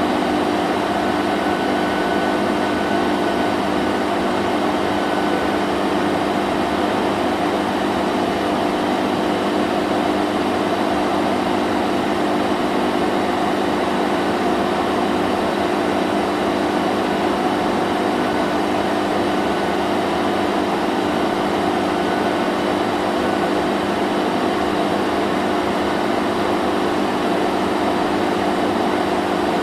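Vacuum cleaner running steadily: a constant motor whine with a low hum over a broad rush of air, unchanging throughout.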